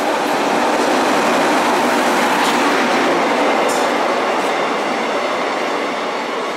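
Indian Railways passenger train, hauled by an electric locomotive, rolling in along the platform: a steady, loud rumble and rattle of coaches and wheels on the rails, a little quieter near the end.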